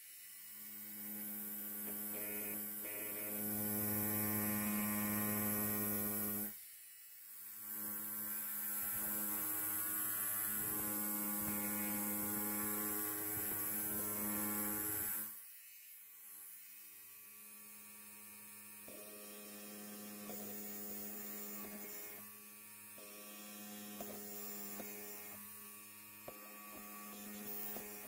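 Electric hair clipper buzzing steadily, louder through the first half with a brief drop about six seconds in, then running quieter from about fifteen seconds on.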